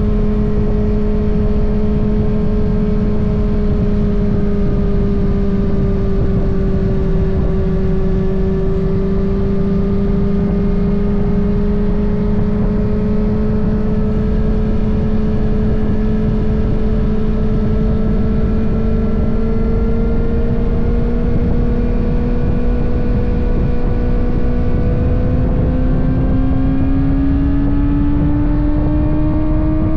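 Kawasaki ZX-6R's 636 cc inline-four running at steady cruising revs under way, heard from the fuel tank with wind and road noise underneath. The engine pitch dips slightly about a quarter of the way in, then rises gradually, climbing more near the end as the revs build.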